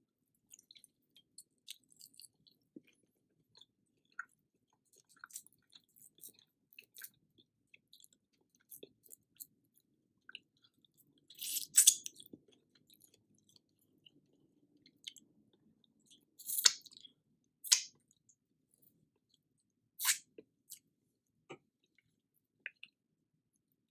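A person chewing food close to the microphone: many small wet clicks, with a few louder, sharper eating sounds near the middle and later on.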